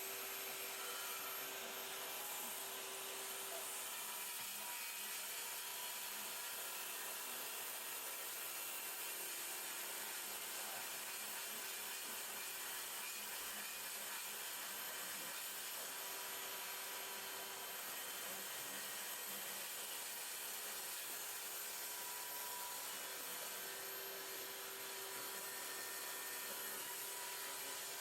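DeWalt FLEXVOLT 60V brushless cordless track saw (DCS520) cutting through a 2-inch-thick Douglas fir slab along a guide track, with a dust extractor running. The sound is steady and even.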